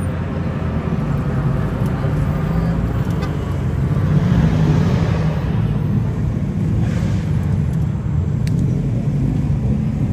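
Car engines running steadily at a low, even rumble, with a brief rush of noise about four seconds in and again around seven seconds.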